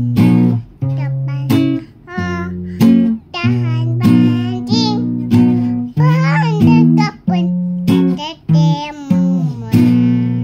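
Acoustic guitar strummed in a steady rhythm, with a child singing a song along with it.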